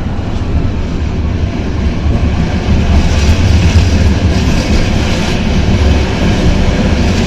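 Metre-gauge Tatra tram running along the track, heard from on board: a loud low rumble of wheels and running gear with rail clatter. The rattling, hissing noise swells from about three seconds in.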